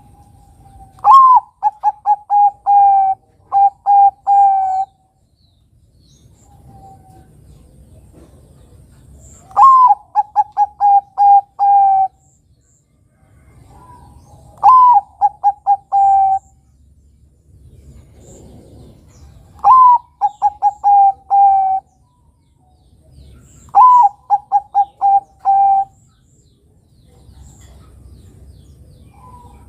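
Bangkok-strain zebra dove (perkutut) cooing: five song phrases, each opening with a rising note and running into a quick series of short, clipped coos, with pauses of a few seconds between phrases.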